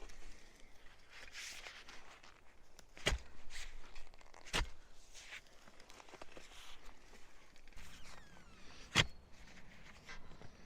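Footsteps and soft rustling of someone moving about, with three sharp knocks about 3, 4.5 and 9 seconds in, the last the loudest.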